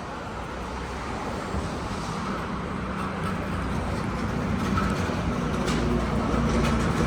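Road traffic on a main road, with a vehicle's engine hum growing steadily louder as it draws near.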